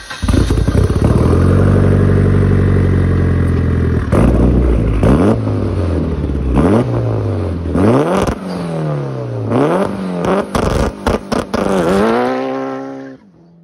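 Mitsubishi Lancer Evolution's 2.0-litre turbocharged four-cylinder, fitted with a titanium exhaust, running at a steady fast idle for a few seconds, then revved up and down repeatedly. Sharp pops and crackles come off the exhaust between revs near the end, and the sound drops off sharply just before the close.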